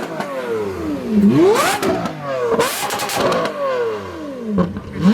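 A supercar's engine being revved hard three times, the pitch shooting up and then sinking slowly back each time, with sharp cracks from the exhaust near the peaks.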